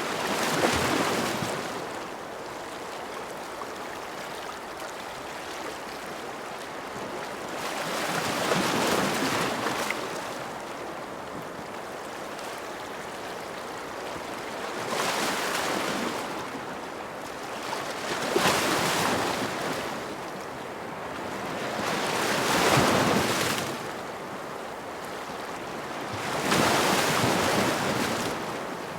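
Ocean waves washing onto a shore over a steady background wash. Six swells come and fade in turn, each lasting a second or two.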